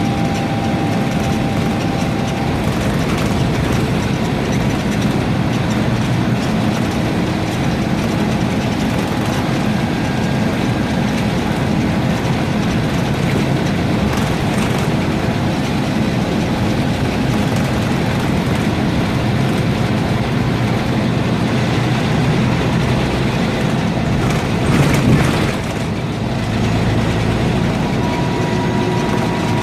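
Scania N230UB single-deck bus heard from inside: the diesel engine running with road noise and body rattle. A brief louder jolt comes about 25 seconds in, and a steady whine sets in near the end.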